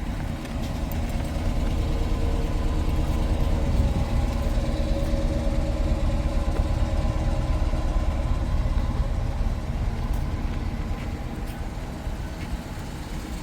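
Dodge Durango's 5.7 Hemi V8 idling steadily, a little louder in the middle. It carries a light tick that does not grow with revs, which the owner takes for an exhaust leak rather than a lifter or noisy injectors.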